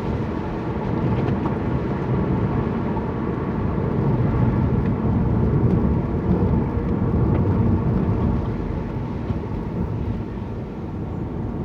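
Car engine and tyre noise heard from inside the cabin while driving at a steady pace, a continuous low rumble that eases slightly near the end.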